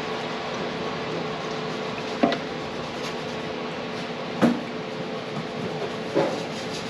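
A steady hum of shop noise with three short knocks of something being handled, about two seconds apart.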